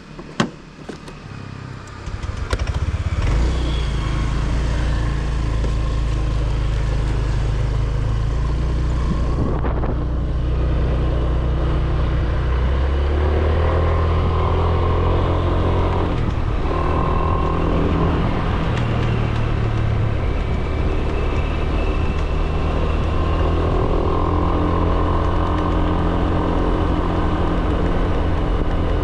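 A vehicle engine: a click just after the start, then the engine comes up about two seconds in and runs steadily as the vehicle gets under way, its pitch shifting a few times with changing revs.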